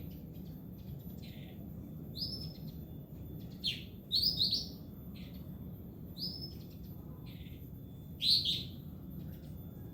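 Pekin robin (red-billed leiothrix) calling in short, separate high chirps at irregular intervals, loudest just after four seconds in and again around eight seconds, over a steady low hum.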